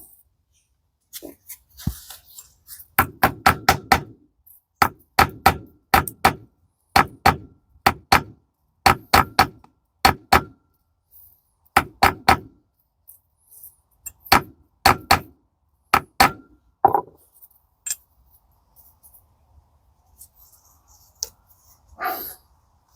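Hammer tapping a small cut-out metal washer to flatten it, in quick runs of two to five sharp blows with short pauses. The hammering stops about seventeen seconds in, and a few lighter knocks follow.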